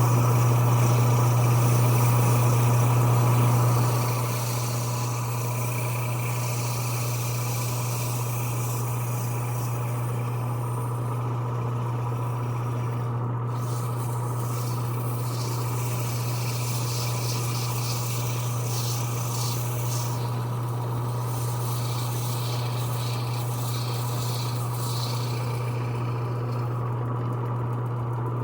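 Lathe running with a steady motor hum while sandpaper rubs against a pedal-car handle spinning on a pen mandrel. The hum eases slightly about four seconds in, and the rubbing rises and falls as the paper is worked along the handle.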